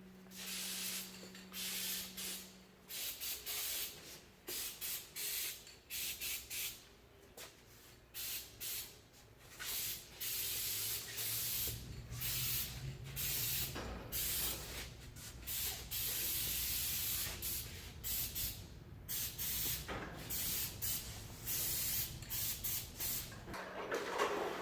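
Aerosol garage door spray lubricant hissing in many short bursts of varying length, one after another, as it is sprayed onto the door's spring and spring bar.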